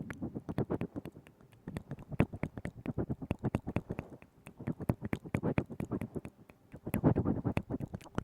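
Wet mouth sounds made right up against a binaural microphone: rapid tongue clicks and lip smacks in several bursts with short pauses between them.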